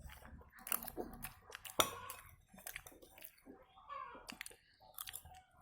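Chewing with small mouth clicks, and a sharper tap about two seconds in.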